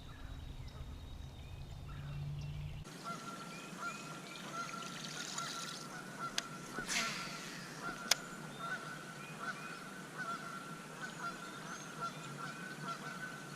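Megastrike Cavitron buzzbait being retrieved across the water surface, its spinning blade giving a steady high squeak with a quick repeating chirp that starts about three seconds in. A few sharp clicks come through about midway.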